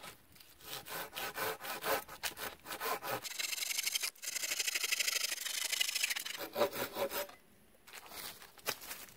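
A hand saw cutting through wood in repeated back-and-forth strokes. The strokes run together into a long stretch of steady rasping in the middle, then a few more strokes follow before it stops near the end.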